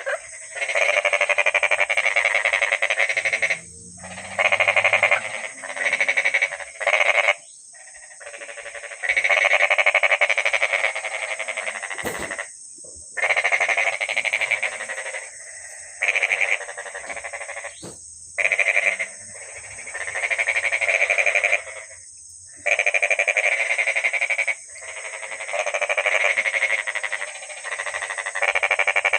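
Frogs calling in a mating chorus: rapid pulsed croaking in loud bouts of one to three seconds, broken by short pauses.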